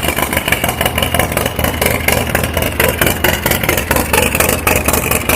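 Harley-Davidson Street Glide's V-twin engine running loud, with a rapid, uneven train of exhaust pulses.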